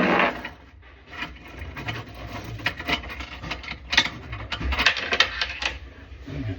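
Tools and metal fittings rubbing, scraping and clicking in quick, irregular strokes as a faucet is fitted.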